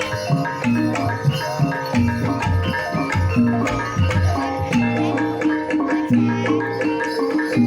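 Banyumasan ebeg gamelan music: ringing pitched percussion over a hand-played kendang drum pattern.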